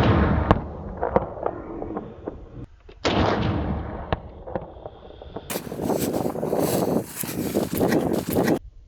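A hunting gun shot about three seconds in, its report rolling away in a long fading echo. Later comes a louder stretch of crackling noise with many sharp clicks that stops suddenly near the end.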